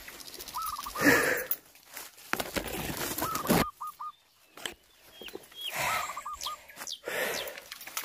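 A bird calling a short run of four or five quick hooked notes, repeated about every two and a half seconds, between heavy breaths from a climber out of breath.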